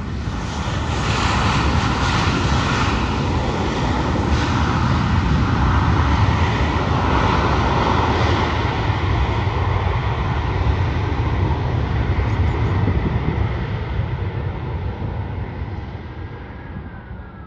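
Airliner's engines passing close by: a loud roar with a steady whine that swells, peaks about six seconds in, then slowly fades, its pitch sinking near the end.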